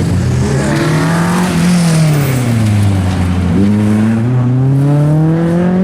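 Rally car engine running hard on a stage. Its note falls for a couple of seconds around the middle, then climbs steadily as the car accelerates.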